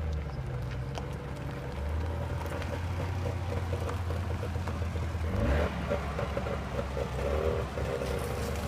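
Small two-stroke kei-car engine running steadily, with a brief rise in pitch about five and a half seconds in.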